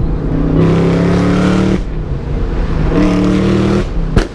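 Car engine revved and held at a steady high speed twice, about a second each time, with a single sharp bang near the end.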